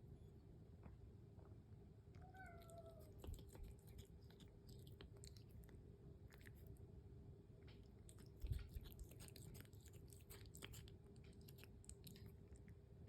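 A house cat gives one short meow, then eats, with a run of faint, quick crunches as it chews its breakfast. A low thump comes about eight seconds in.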